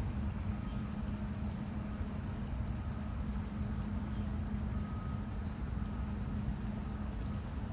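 A steady low rumble with a constant low hum running underneath, unchanging in level, with a few faint short high tones scattered through it.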